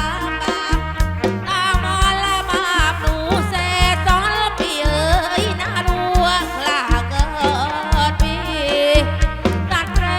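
Live kantrum band music played through a PA system: a steady drum beat with heavy bass under a wavering, ornamented lead melody.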